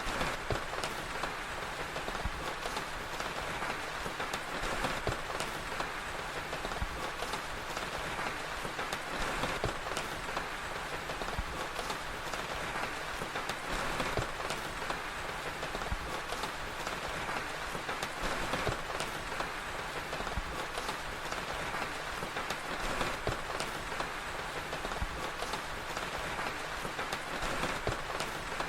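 Steady rain with a crackling fire: an even hiss of falling rain, peppered with frequent small, sharp crackles.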